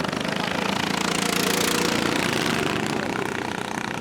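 Racing lawnmower engine running hard, a fast even firing. It grows louder about a second in, as if passing close, then eases off near the end.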